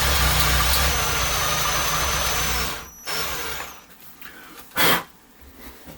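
Power drill running steadily for about three seconds, then stopping. A short loud noise follows near the end.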